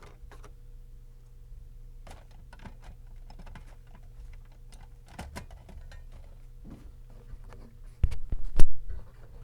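Scattered light clicks and taps of hands handling parts, then a cluster of loud knocks and thumps about eight seconds in, over a faint steady hum.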